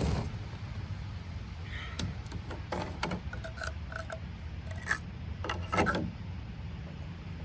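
Camping gear being handled: a series of short scrapes, rubs and knocks, the loudest near the start and twice around the middle, over a steady low rumble.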